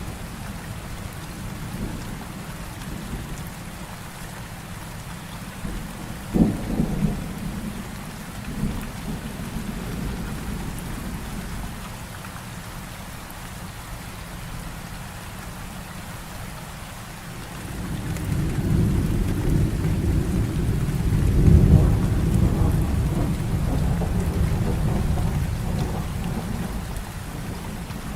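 Heavy rain falling steadily through a thunderstorm. A sharp thunderclap comes about six seconds in, and a long, deep roll of thunder builds from about two-thirds of the way through, peaks, and slowly fades.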